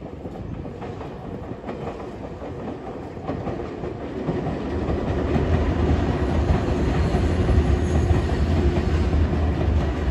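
Nankai electric commuter train running along the tracks, getting steadily louder as it draws near, with a deep rumble building from about four seconds in and wheels clattering over the rails.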